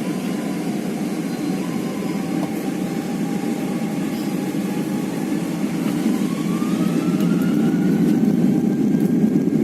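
Airliner's engines heard from inside the passenger cabin: a steady low rumble with a few whining tones. About six seconds in, a whine starts rising in pitch and the sound grows a little louder as the engines spool up for the takeoff run.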